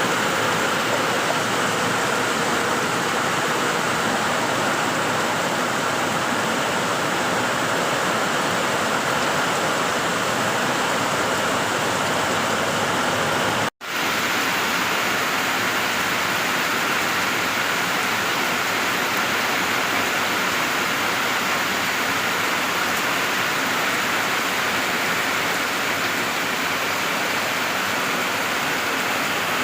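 Steady heavy rain falling, an even hiss that holds at one level, dropping out for a split second about halfway through.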